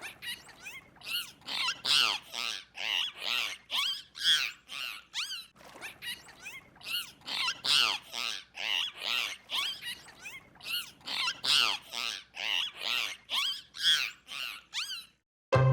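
An animal calling over and over: short high calls at about two a second, in two runs with a short break about five and a half seconds in.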